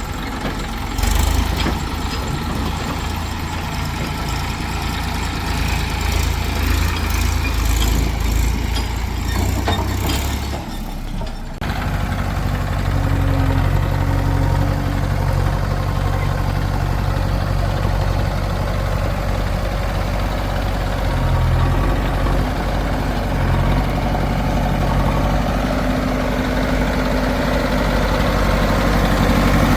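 Diesel engines of heavy farm and construction machinery running steadily. The sound changes abruptly about twelve seconds in, then carries on as another steady engine run.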